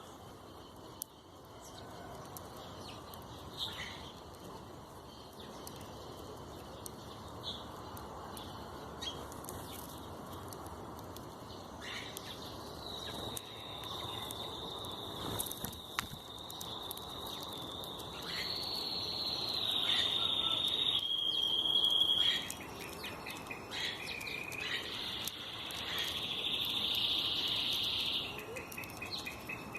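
Outdoor nature sounds: scattered short chirps and clicks, then about twelve seconds in a high, long, held trill sets in, steps up and down in pitch, and grows louder through the middle and near the end.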